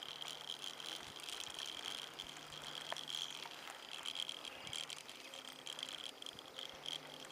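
A semi-recumbent bicycle rolling along, with small rattles and ticks from the bike and a steady high-pitched buzz underneath.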